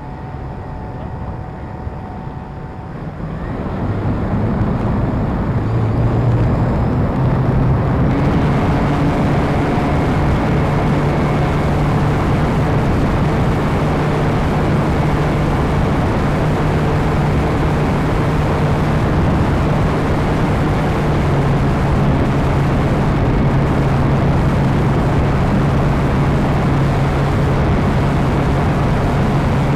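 Radio-controlled model airplane's motor and propeller run up to power about four seconds in, then hold a steady drone under a broad rush of air noise, as heard through a camera carried on the plane.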